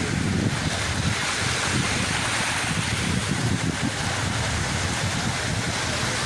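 Sea waves washing and surging, with wind buffeting the microphone as a gusty low rumble.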